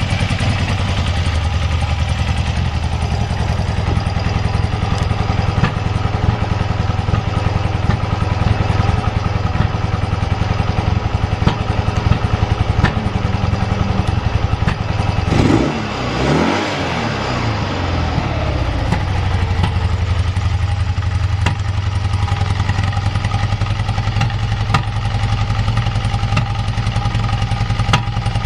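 BMW R80's air-cooled flat-twin (boxer) engine idling steadily with an even beat, apart from a brief swoop in pitch about halfway through. The idle is stable, with no abnormal noises.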